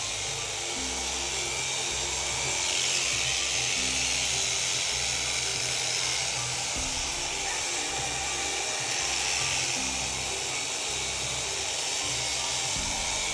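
Electric sheep shearing handpiece running steadily as it cuts through fleece, a continuous high buzz, with background music under it.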